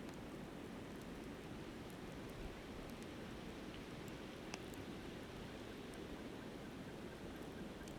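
Steady rush of a flowing river with the sparse small crackles and pops of a wood campfire. A faint, evenly repeated high pip, about four a second, starts around the middle.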